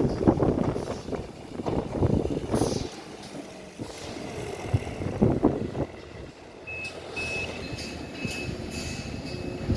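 Gusty wind noise on the microphone for the first few seconds. About two-thirds of the way in, a truck's reversing alarm starts beeping steadily at a high pitch.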